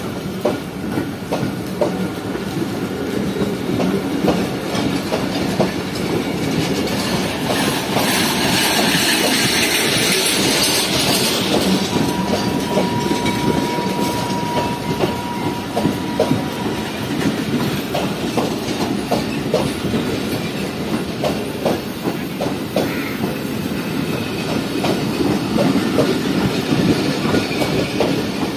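Passenger train pulling out and rolling past, its coach wheels clicking over the rail joints in a steady clickety-clack over a continuous rumble. A thin steady squeal runs for several seconds near the middle.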